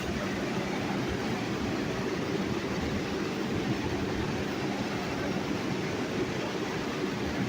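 New York City subway train running on the Lexington Avenue Line, a steady rumble of wheels on rails with no break or change.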